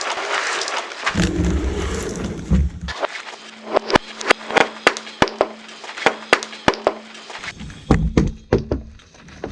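Car tyre rolling over and crushing objects. A dense crunching crackle gives way to a low rumble, then a run of sharp, separate cracks and snaps, and then dull thuds near the end.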